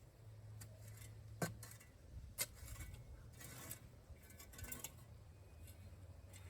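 Faint scattered clicks and light scraping over a low steady hum. The two sharpest clicks come about a second apart, near the middle.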